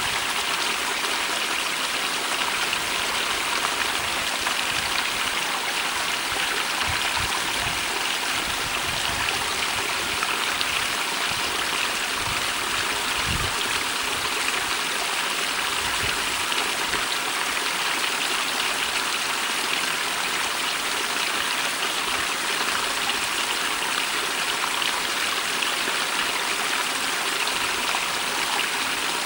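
Small stream flowing steadily, water rushing and splashing over stones in an even, unbroken noise. A few brief low bumps come between about 7 and 16 seconds in.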